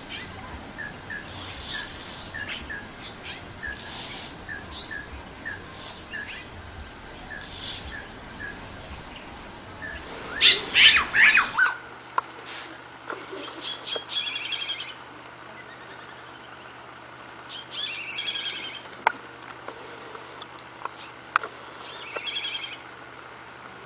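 Yellow-rumped cacique (xexéu, japiim) calling: a run of varied short calls over a row of quick pips, then harsher calls about a second long repeated every few seconds.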